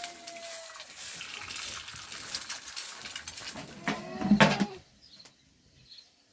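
A farm animal gives one short, loud call about four seconds in, over a rough, rustling background. After the call it falls almost quiet.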